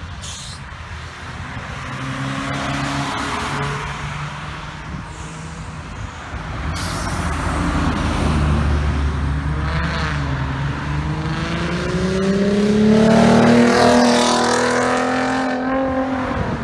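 Car engines as cars pull out and drive past. One car accelerates through the second half with a rising engine pitch, loudest a few seconds before the end, and then drops away sharply.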